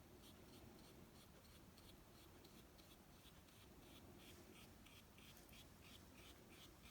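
Faint, quick scratchy strokes of a paintbrush on watercolour paper, about three a second.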